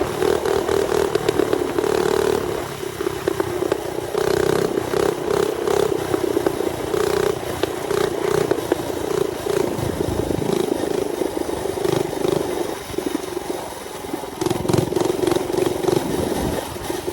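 Mini bike's small engine running under throttle while riding. It holds a fairly steady note that rises and dips slightly, with scattered light rattles.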